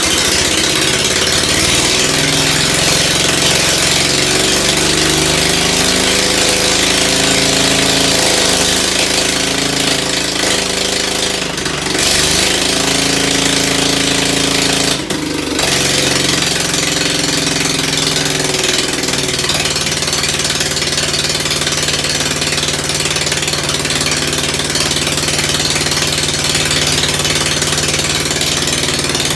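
Rebuilt Ford engine running just after its first start-up following a tune-up, its speed wandering up and down for about twenty seconds before settling to a steady run.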